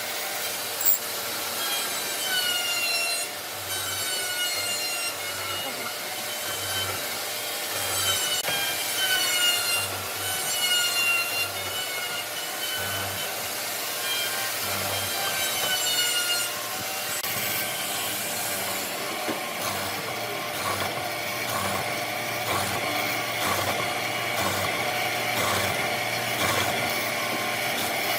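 Wood being sawn by hand in repeated strokes. For the first half each stroke carries a squeal that falls in pitch; later the strokes turn to a rougher scraping.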